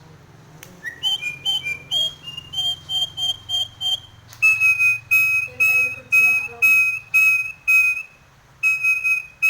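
Nias hill myna whistling loudly: first a quick run of short, clear notes, then a string of evenly spaced, steady whistles, about one and a half a second, broken by a short pause near the end. The bird is in strong breeding condition ('over birahi').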